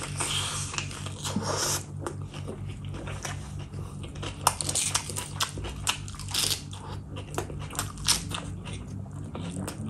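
Close-miked eating: a hand-stuffed mouthful of lettuce leaf wrapped around rice and mutton curry being bitten and chewed. A dense wet stretch of chewing in the first couple of seconds, then many short sharp mouth clicks and smacks.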